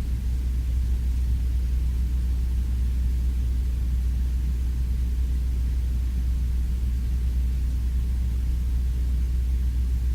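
Steady low rumble with a constant deep hum underneath, unchanging and with no distinct knocks or clicks.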